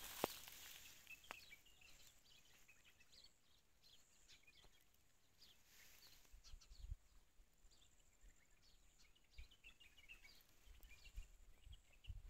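Faint outdoor field ambience with scattered small bird chirps, and a few low thumps around the middle and near the end.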